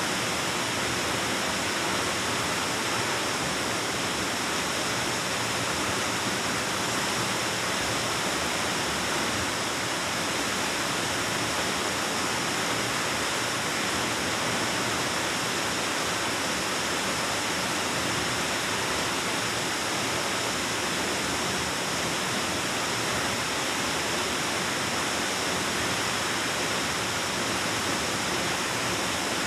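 Waterfall rushing steadily: an unbroken, even hiss of falling water with no pauses or separate splashes.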